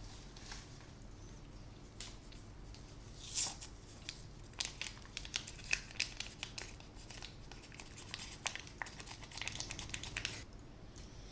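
Close crinkling and crackling of food packaging being handled, in a dense run of sharp clicks that starts about three seconds in and stops shortly before the end.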